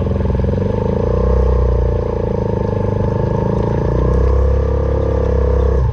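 Suzuki Van Van 125's single-cylinder four-stroke engine, fitted with an aftermarket exhaust, running under load while riding off-road, its revs rising and easing off twice.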